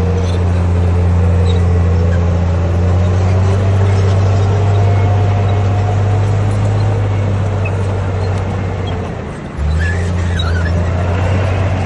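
Heavy earthmoving machine's diesel engine running steadily with a deep drone. About nine seconds in the sound sags briefly, then comes back abruptly.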